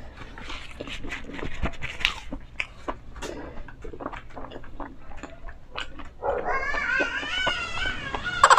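Close-miked chewing and lip-smacking: wet mouth clicks from eating the last of the fried chicken. Near the end, a wavering pitched hum comes in.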